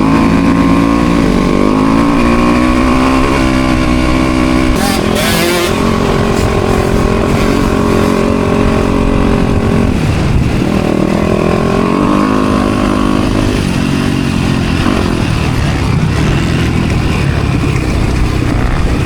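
Motocross bike engine revving up and down as the rider works the throttle and gears around the track. There is a short rushing clatter about five seconds in.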